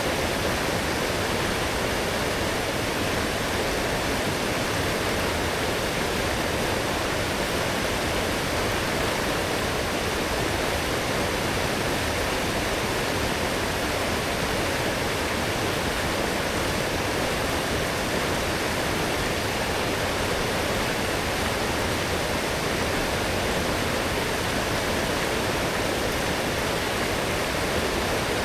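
A strong forest stream, running high after heavy rain, rushing steadily over its bed.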